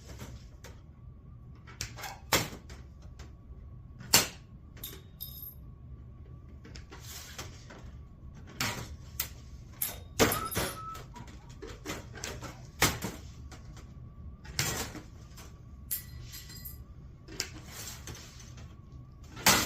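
Red-handled aviation snips notching sheet metal: irregular sharp snips and clicks, roughly one every second or two, with softer scraping of the sheet between cuts.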